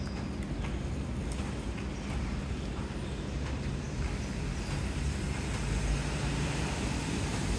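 Steady low rumble of outdoor background noise with a faint low hum, growing slightly louder toward the end.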